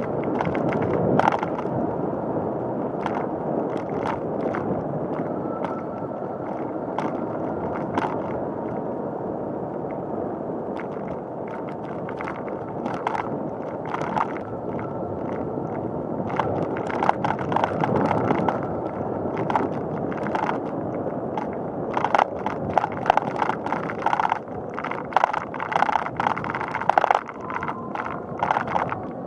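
Bicycle rolling along a paved path: a steady rush of tyre and riding noise, with scattered clicks and rattles from the bike going over bumps. The rattling grows much busier in the last several seconds.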